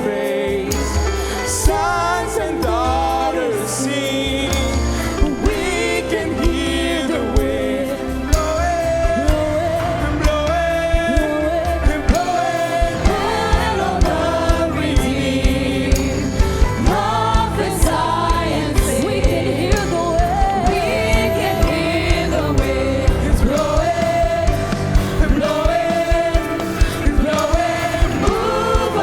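Gospel worship music: singing over band accompaniment, with a steady drum beat.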